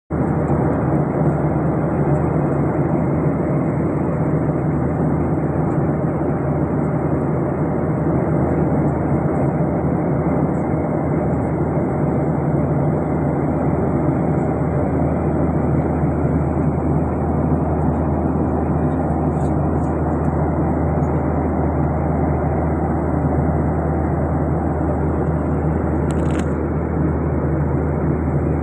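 Steady cabin noise of an airliner in flight: engine and airflow noise with a low hum, unchanging throughout, and one brief click near the end.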